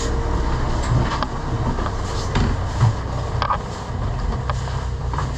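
Steady low engine hum aboard a yacht, with a few short knocks and clunks.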